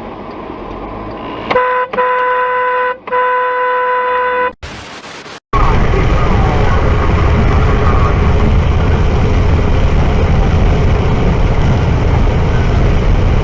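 Car horn sounding two long blasts, each about a second and a half with a brief break between them. Then, after a short hiss and a moment of silence, a loud steady rushing noise begins and runs on.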